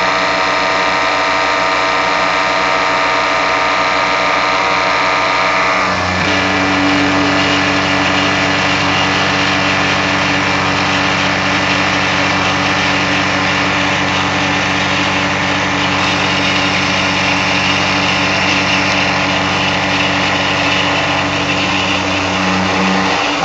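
Tormach 770 CNC mill milling steel with a half-inch three-flute solid carbide end mill at 2000 rpm, a steady machine whine with a hum. About six seconds in a deeper, steadier buzz joins it, matching the cutter's three flutes passing a hundred times a second, and it drops out just at the end.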